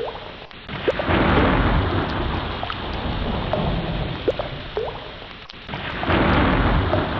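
Ocean surf: waves surging and washing in, one swell about a second in and another near the end, with brief squeaky chirps scattered over the rush of water.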